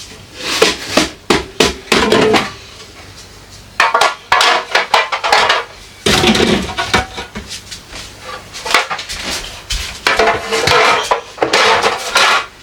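Hard kitchen items knocking and clattering against each other and against hard surfaces as they are handled, in several bursts of sharp knocks with short pauses between them.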